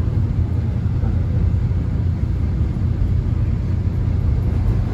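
Inside a moving Korean subway car: the steady low rumble of the train running on the tracks.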